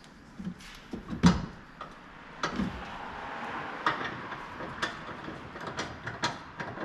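Irregular metallic clinks and knocks of hand tools and suspension parts being handled, with one loud knock about a second in and a stretch of hiss in the middle.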